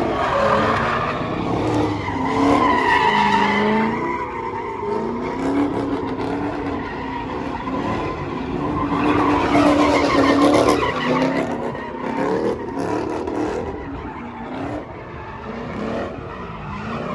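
A car's tires squealing under a burnout or spin, with the engine revving high and its pitch wavering up and down; it swells twice.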